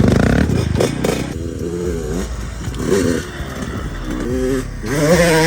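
Dirt bike engine running, its note dropping about half a second in, then rising and falling in short revs.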